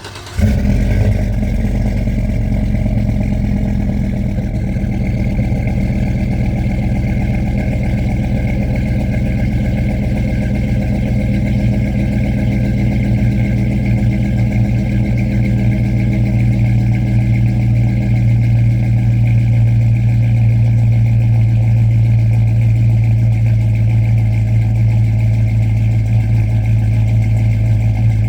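A Chevrolet Tahoe's V8, newly fitted with stage 2 parts, catches just after the start and then idles steadily. This is its first start-up, on an untuned setup.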